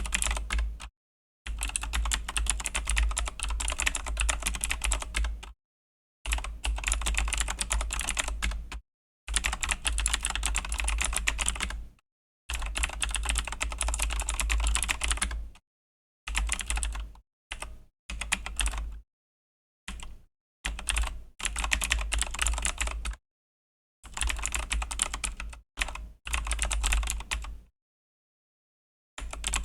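Fast typing on a Razer BlackWidow V3 mechanical keyboard with Razer Green clicky switches, a dense clatter of keystrokes. It comes in runs of one to four seconds broken by short pauses of dead silence.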